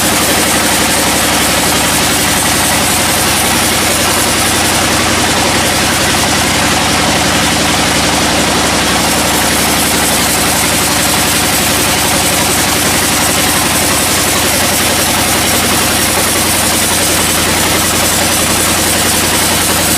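Sawmill machinery running steadily, an engine's even drone with no change in speed.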